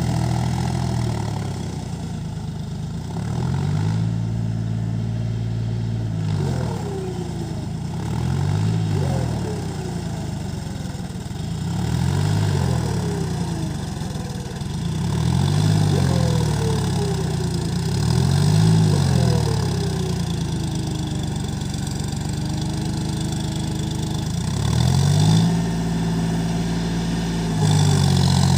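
John Deere 5050D tractor's diesel engine running, revved up and let fall back to idle about six or seven times.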